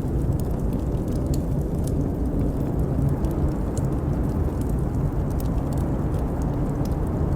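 Layered blizzard-and-fireplace ambience: a steady deep rumble of storm wind, with the irregular crackles and pops of a wood fire scattered over it.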